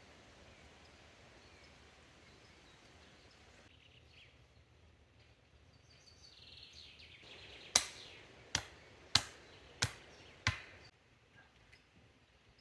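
Five sharp chopping strikes on wood, a little over one a second, starting about eight seconds in, with a brief rustle just before them.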